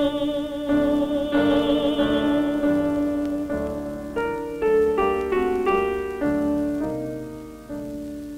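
A female classical singer holds a long final note with vibrato over piano chords, then the piano plays a short solo interlude of separate notes and chords that dies away near the end.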